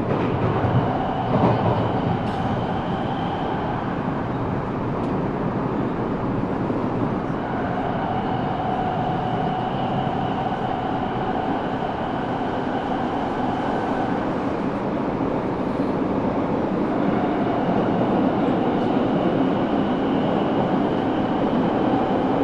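Eidan 6000 series subway car running at speed, heard from the cabin floor: a steady rumble of wheels on track. Over it, the high-pitched whine of its Mitsubishi three-level VVVF inverter, a unit taken from a 7000 series car, comes in three times as steady tones and drops out between them.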